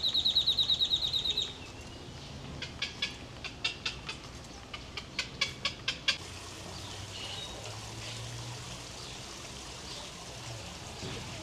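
Birds calling: a loud, rapid trill of high chirps, about ten a second, for a second and a half, followed by scattered sharp chips for the next few seconds.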